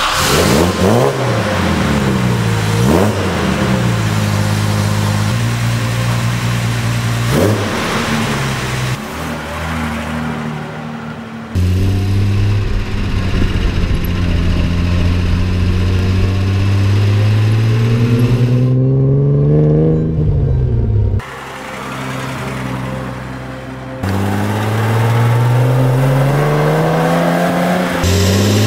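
Jaguar E-Type 4.2-litre straight-six on triple SU carburettors starting up, then revving and pulling away. Its pitch climbs under acceleration and falls back off the throttle again and again, with a few sudden jumps in the sound.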